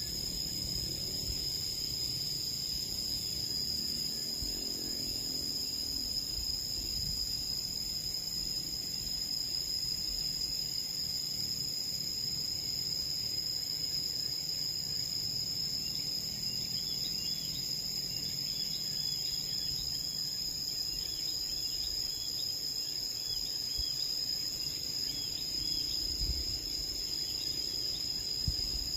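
A continuous, even, high-pitched insect chorus holds steady throughout. Faint short bird chirps come and go over it in the second half.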